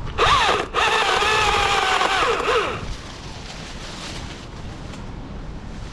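Chainsaw revving up to full throttle and running for about two and a half seconds while cutting off small sucker sprouts, then dropping back. A quieter steady running noise follows.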